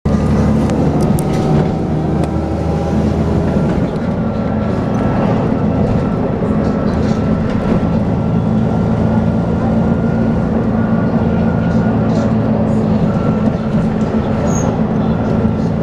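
Dennis Trident 2 double-decker bus running: a steady engine drone with a thin, high, steady whine over it. This is the vacuum-cleaner-like sound known as "hoovering".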